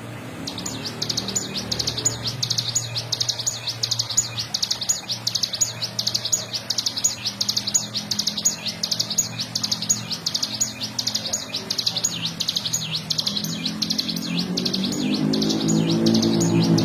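Ciblek gunung (cigun) singing its fast, unbroken 'ngebren' trill: rapid repeated high notes that start about half a second in and carry on. A low hum underneath grows louder near the end.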